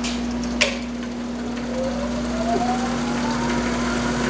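Wood lathe running with a steady hum. There is a sharp click about half a second in, and a thin whine rises steadily in pitch through the second half.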